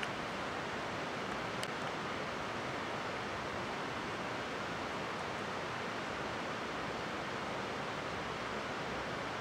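Steady, unbroken rush of running water, an even hiss, with one faint click about a second and a half in.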